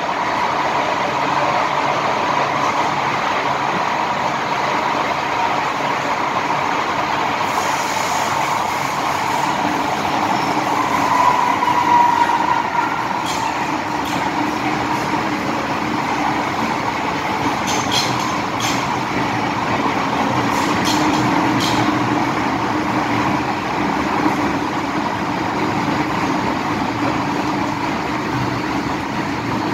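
MTR M-Train electric multiple unit running along the line: a steady rumble from the wheels and running gear, with a tone that swells and fades about twelve seconds in. Several short, sharp high clicks come in the second half.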